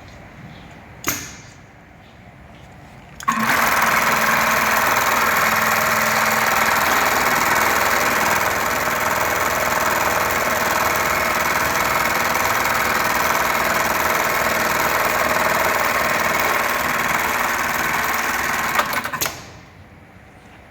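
HighTex 680HM electronic bar-tacking sewing machine: a sharp click about a second in, then the machine starts and runs steadily for about sixteen seconds sewing a tack pattern, stopping shortly before the end.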